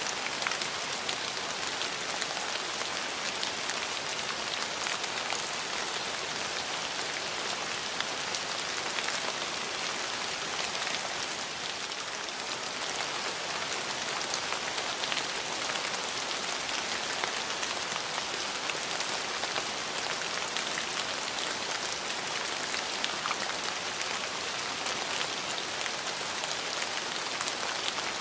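Steady rain falling on hard surfaces: a constant hiss with many small drop ticks throughout.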